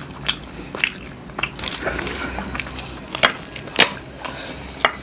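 Close crunching and chewing of a crisp fried malpua, a series of irregular crackly bites.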